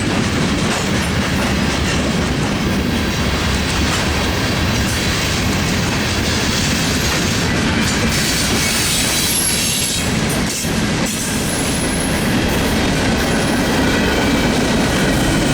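Freight train cars rolling past at speed: a steady loud rumble and clatter of steel wheels on the rails, with a couple of brief high wheel squeals about two-thirds of the way in.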